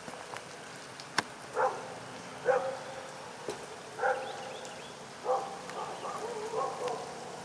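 A dog barking: several short barks spread about a second apart, with a sharp click about a second in.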